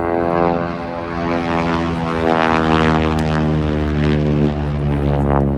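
Propeller airplane flying past, its engine drone a dense, steady stack of tones that swells in the middle and shifts in pitch as it passes.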